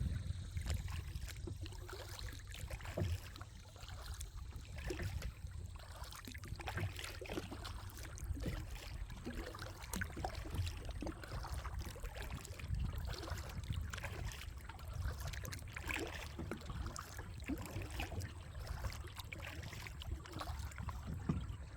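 Kayak paddle strokes: the blades dip and splash in the creek water, with drips running off them, over a low rumble.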